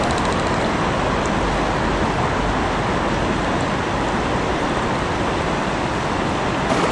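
Steady rushing of shallow river water running over rocks around a kayak.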